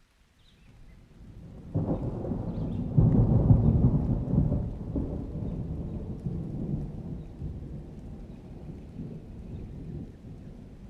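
A peal of thunder. A low rumble builds from about half a second in and jumps louder near two seconds. It is loudest around three to four seconds, then slowly rolls away.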